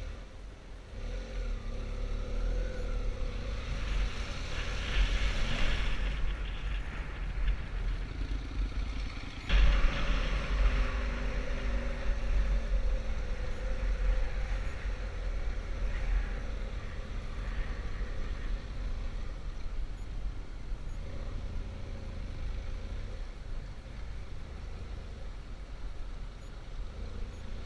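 Adventure motorcycle engine running while riding, with heavy low wind rumble on the microphone; the engine pitch rises and falls a little, and the sound jumps louder abruptly about nine seconds in.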